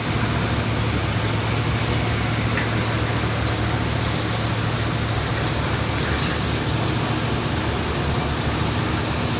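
Boat engine running steadily, a constant low hum under even, steady noise.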